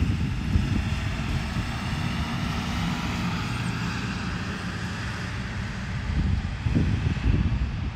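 DJI Mavic 3 drone's propellers making a steady whirring hum, with wind buffeting the microphone in gusts, strongest near the start and again near the end.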